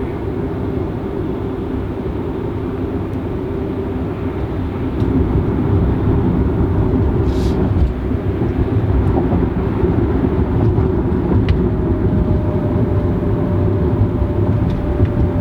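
Road and tyre noise inside the cabin of a 2018 Tesla Model X at freeway speed: a steady low rumble that gets louder about five seconds in.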